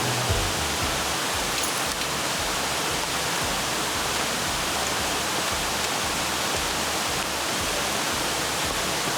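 Glen Falls waterfall rushing in a steady, unbroken roar of falling water, with irregular low thuds on the microphone underneath.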